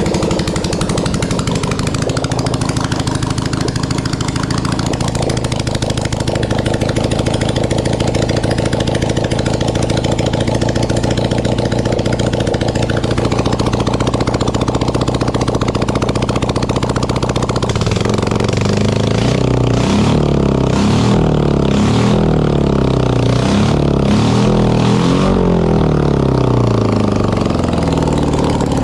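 Air-cooled BMW boxer twin engine from the 1980s running at a steady idle. From about two-thirds of the way in it is revved repeatedly, its pitch rising and falling with each blip of the throttle.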